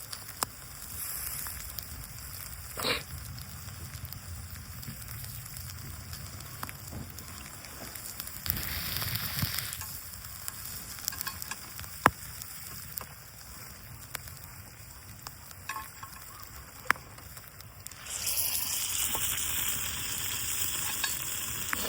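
Food sizzling in a pan over a campfire, with scattered sharp clicks. The sizzle swells briefly about nine seconds in and grows louder again near the end.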